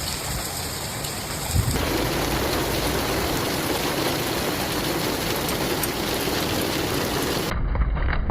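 Rain pouring down in a steady hiss, across several spliced recordings of a storm: the sound changes abruptly about two seconds in, and again near the end, where it turns duller with a low rumble.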